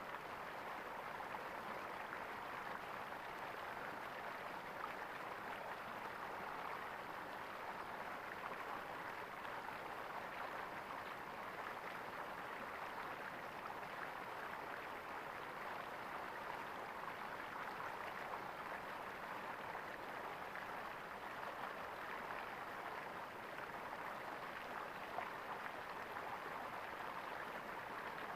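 Flowing water gurgling steadily, an even rushing splash with no breaks.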